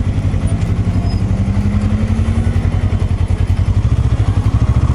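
Kawasaki ER-6n's 650 cc parallel-twin engine running at low revs under way, with a fast even pulsing; its pitch rises slightly in the first two or three seconds, then holds steady.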